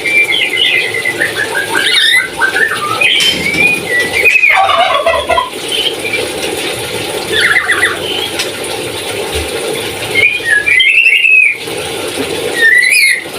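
Lory (parrot) calling in bouts of rapid, stepping, descending notes, a gobble-like call imitating a turkey, repeated about five times.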